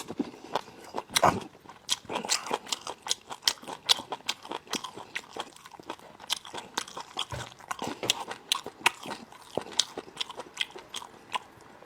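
Close-miked chewing and biting of spicy braised lamb chops: a dense, irregular run of short clicks and crunches.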